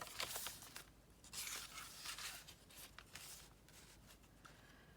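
Faint paper rustling as pages of a handmade junk journal are handled and turned: a few soft swishes in the first half, quieter after.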